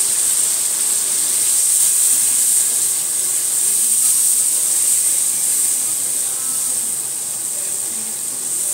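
Onion and spice masala sizzling steadily in a wok with a splash of water added, as it is fried down (kosha) and stirred with a wooden spatula.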